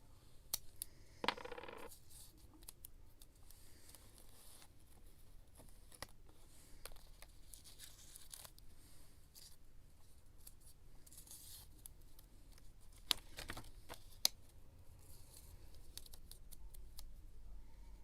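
Paper and craft supplies being handled up close for scrapbooking: short stretches of paper rustle and sliding, broken by several sharp taps and clicks, the loudest two about thirteen and fourteen seconds in.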